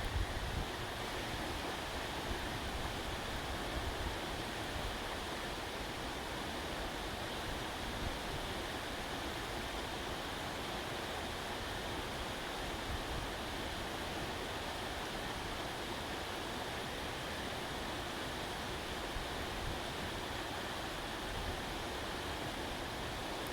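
Bonfire embers burning: a steady hiss with a few faint pops scattered through it.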